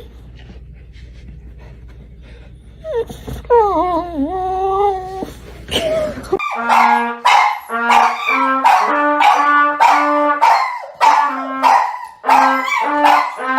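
A dog whines in a long, wavering rise and fall of pitch. From about halfway through, a quick run of short, evenly pitched notes follows, like a simple tune.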